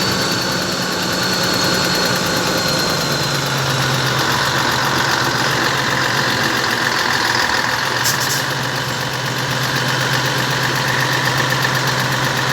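Scania 113 truck's turbo diesel engine idling, its turbocharger whistling. A high thin whistle slowly falls in pitch and fades over the first three seconds, as the engine note settles lower.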